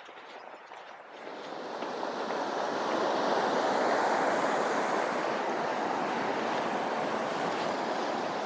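Mountain stream water rushing, a steady roar that swells over the first couple of seconds and then holds level.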